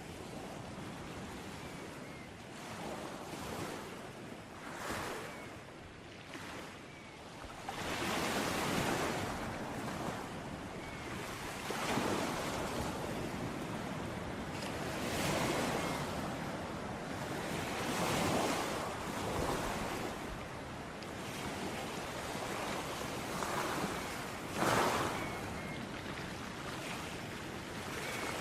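Sea waves breaking and washing ashore, a continuous surf with a surge every few seconds as each wave comes in, one sharper crash near the end.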